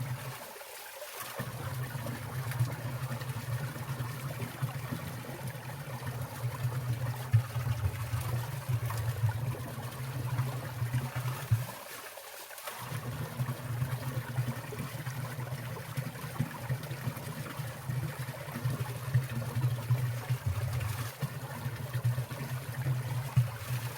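Winter valley stream trickling and splashing under icicles, a steady flow with scattered sharper splashes. Its low rumble drops out briefly twice, about a second in and about halfway through.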